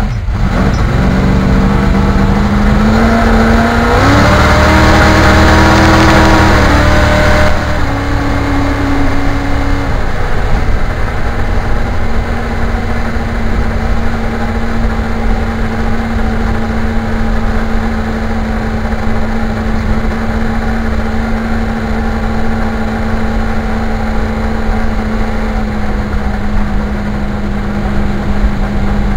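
Car engine accelerating, its pitch climbing over the first few seconds and loudest about four to seven seconds in, then dropping as the car shifts up, and settling into a steady cruise for the rest.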